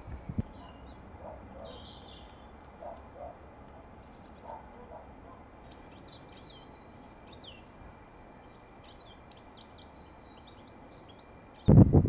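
Small garden birds calling: many short, high, thin chirps and brief trills scattered through, over a faint steady hiss. Near the end a sudden loud low thump and rumble.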